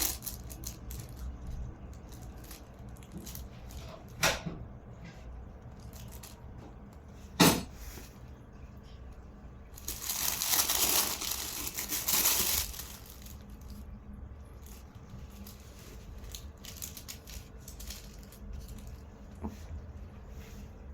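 Thin plastic shopping bag crinkling and crackling as a dog plays with it: a couple of sharp crackles, then a longer spell of crinkling about ten to twelve seconds in, with lighter rustles in between.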